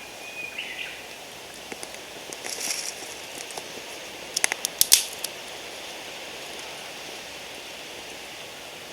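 Small twigs being handled and fed onto a newly lit wood fire: a brief rustle, then a quick run of sharp snaps and cracks about four to five seconds in, the last the loudest.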